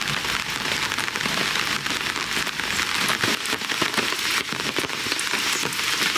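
Steady rain falling on a camping tarp, a dense run of small drop ticks.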